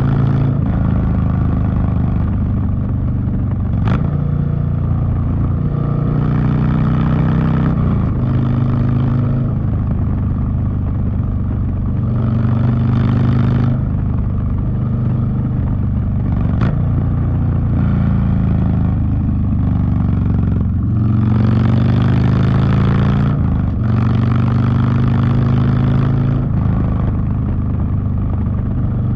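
Harley-Davidson Street Bob V-twin running loud through a TBR (Two Brothers Racing) 2-into-1 exhaust while riding, its pitch repeatedly climbing under throttle and dropping back at each shift or roll-off. Two short sharp clicks stand out, about 4 seconds in and past the middle.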